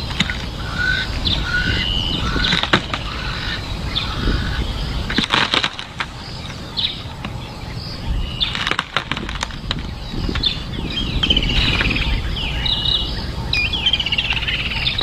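Many birds chirping and calling in short whistled notes over a steady low rumble, with a few clusters of sharp clicks about five and nine seconds in.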